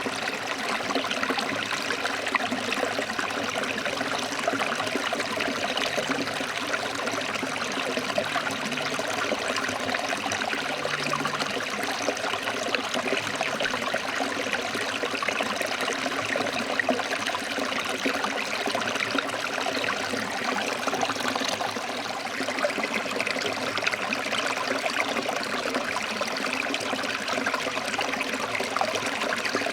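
Stream water flowing and splashing over rocks, a steady, even rush with no pauses.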